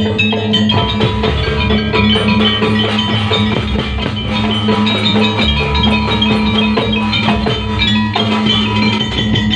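Live jaranan music: a gamelan-style ensemble of drums and struck metal instruments playing a steady, busy rhythm over sustained low tones.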